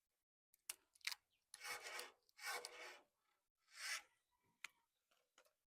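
Scraping and rubbing noises: three longer scraping strokes with sharp clicks before and after them.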